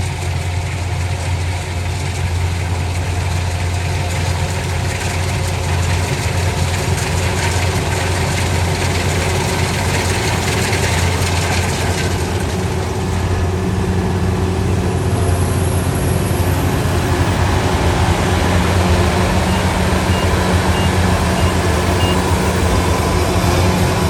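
A large engine running steadily at a constant speed, with a strong low hum. About twenty seconds in, a few faint short high beeps sound in a row.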